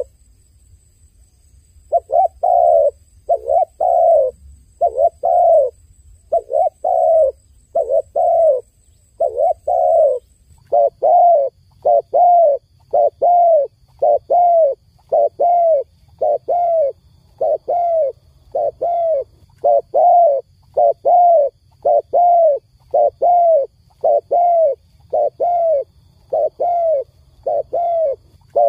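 Dove cooing: a long, even run of short low coos, mostly in pairs, each falling a little in pitch, about two coos a second. It starts after a pause of about two seconds.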